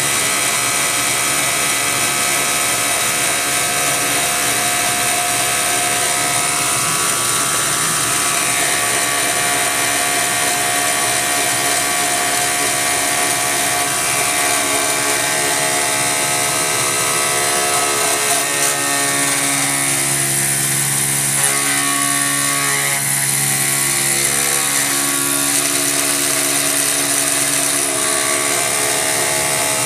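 CNC milling machine with a belt-drive spindle cutting a part: steady whining tones from the spindle and drives over continuous cutting noise. Partway through, the mix of tones shifts, with lower tones coming in for several seconds as the cut changes.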